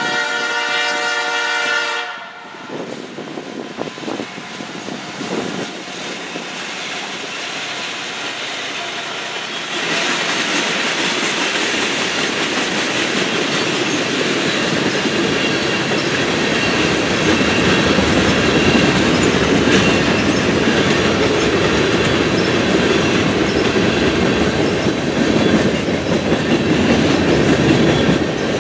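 Air horn of a Canadian National freight train's lead locomotive, a GE C40-8M, sounding a multi-note chord for about two seconds. The train then arrives about ten seconds in, and its tank cars roll past with a steady wheel rumble and clickety-clack on the rail joints.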